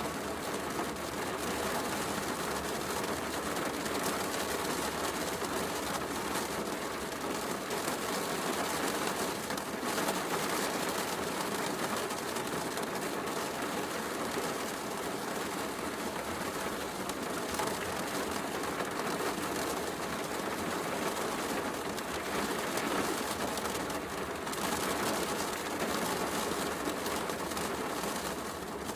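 Heavy rain falling steadily with a wood fire crackling, a continuous even hiss without pauses.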